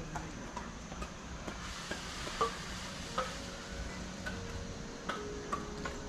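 Footsteps on an outdoor path, about two steps a second, over a steady crackling hiss, with a faint steady hum coming in about halfway through.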